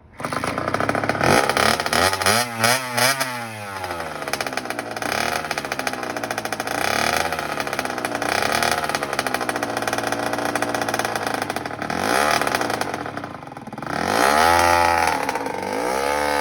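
1997 Kawasaki KX60 two-stroke dirt bike engine revving up and down unevenly as a first-time rider works the throttle, with sharp rises in pitch a couple of seconds in and again near the end.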